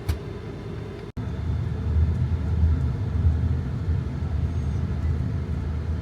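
Steady low road rumble of a taxi heard from inside the cabin, with a sharp click right at the start and a brief break about a second in, after which the rumble is louder.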